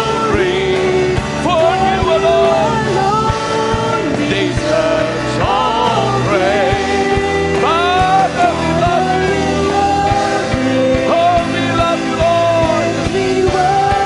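Worship band playing with singing: sung melody over sustained chords and steady drum hits.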